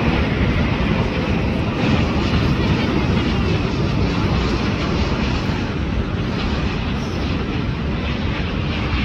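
Jet engines of a Singapore Airlines Airbus A350 (Rolls-Royce Trent XWB) arriving: a steady, loud jet rumble that eases slightly in the second half.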